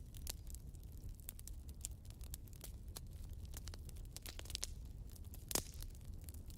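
Wood fire burning in a fireplace: irregular crackles and pops over a low steady rumble of flame, with one louder pop about five and a half seconds in.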